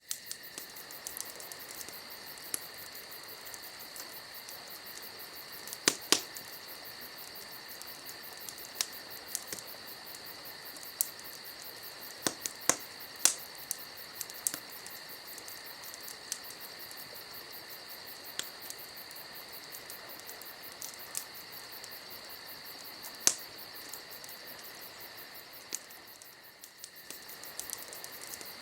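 Campfire crackling, with scattered sharp pops, the loudest a few seconds in, around the middle and near the end. Under it, crickets keep up a steady high chirring.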